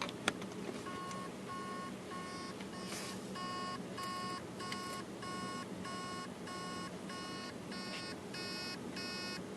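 A couple of clicks, then a hard drive's spindle motor beeping in an even series of short high tones, about two and a half a second. The motor is trying to start the platters and can't, most likely because the heads are stuck on a platter, though a stuck or seized bearing gives the same noise.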